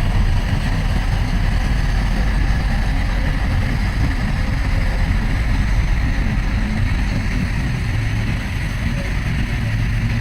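Heavy diesel earthmoving machine engine running steadily, a low even rumble with no breaks or knocks.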